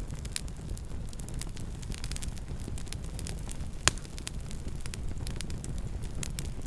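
Wood campfire crackling: a steady scatter of small snaps over a low rumble, with one sharp, louder pop about four seconds in.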